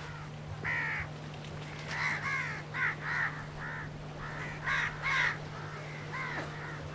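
Crows cawing repeatedly: many short harsh calls, several in quick runs, loudest about five seconds in, over a steady low electrical hum.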